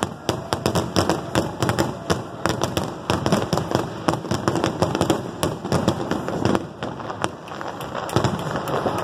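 Fireworks display: aerial shells bursting in quick succession, a dense run of bangs and crackles with no let-up.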